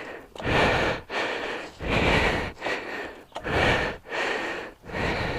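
A person breathing heavily and quickly, about seven loud breaths in and out, out of breath from the effort of a motorcycle tip-over.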